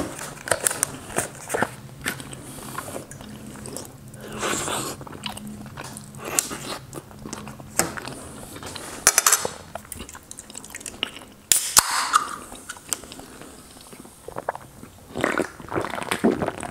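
Close-miked eating sounds: soft gnocchi being chewed with wet mouth noises and clicks of a fork on the plate, one sharp crack about two-thirds of the way through, and sips from a drink can near the end.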